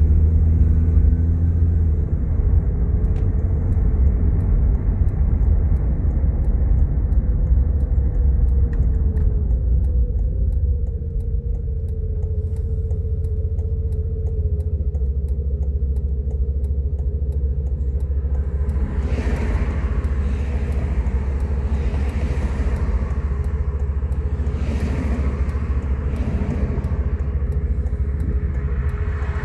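Steady low rumble of a car heard from inside the vehicle, with a faint wavering hum. In the last third, several swells of hissing noise rise and fall, like traffic going by.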